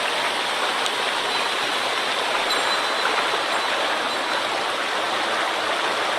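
Rushing water of a mountain stream running high after a typhoon: a steady, unbroken rush.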